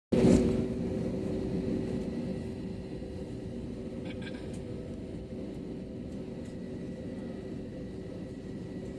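Steady drone of a passenger plane's cabin on the ground before takeoff, with a constant hum running through it. It is loudest in the first second, then settles to an even level.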